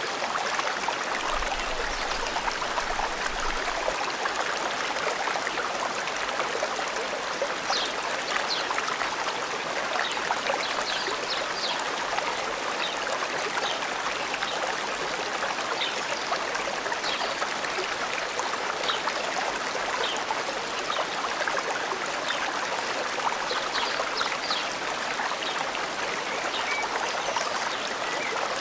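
Forest stream flowing steadily, with short, high bird chirps scattered over it.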